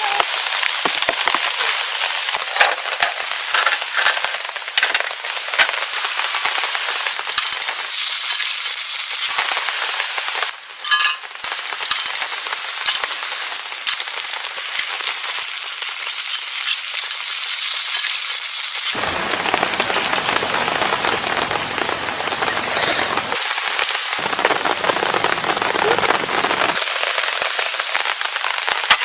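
Steady rain falling, with many small sharp drop ticks. About two-thirds of the way through, a low hum joins in under the rain.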